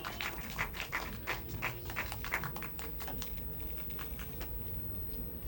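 Scattered sharp clicks, several a second, thinning out after about three seconds, over a faint steady hum.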